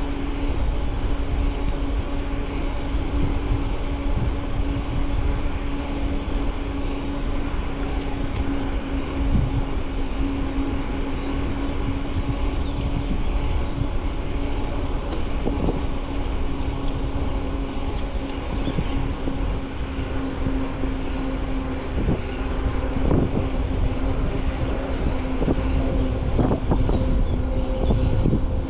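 Bicycle ridden along a path: tyre rolling noise and wind on the mounted microphone, with a steady hum throughout and a few knocks from bumps.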